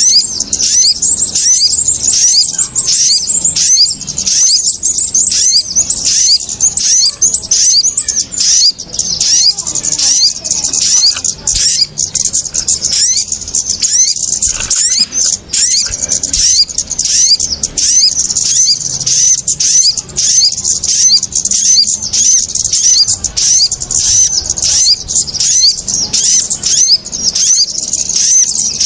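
Dense, continuous chatter of small birds, calls of kemade and sogok ontong mixed into a bird-lure track: high, rapid chirps and short sweeping notes, several a second, overlapping without pause, an agitated 'ribut' calling meant to draw birds in.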